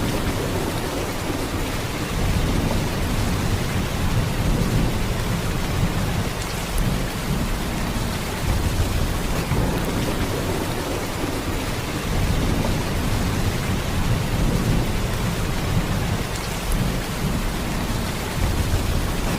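Heavy rain pouring steadily: a dense, even hiss with a deep low-end roar that swells and eases a little from moment to moment.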